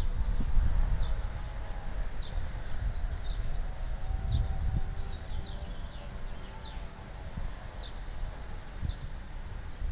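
A songbird giving short, high, downward-slurred chirps, repeated about once a second, over a low rumble that is loudest at the start.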